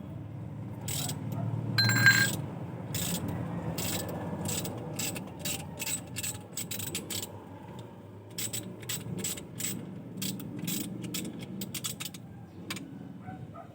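Metal hand tools clicking and clinking irregularly on engine parts, with one louder ringing metal clank about two seconds in, over a low steady hum.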